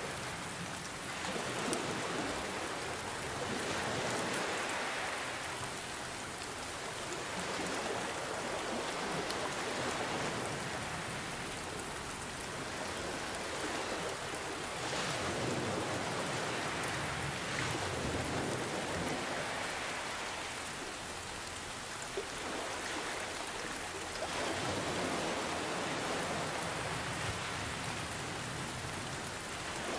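Steady rain hiss mixed with gentle ocean waves that swell and ebb every few seconds.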